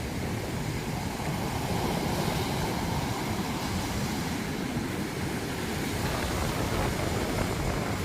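Ocean surf washing onto the shore as a continuous noise, with no separate wave breaks standing out.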